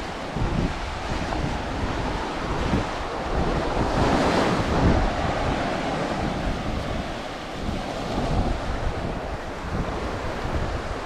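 Ocean waves breaking and washing up a sandy beach, the surf swelling louder about four seconds in, with gusts of wind rumbling on the microphone.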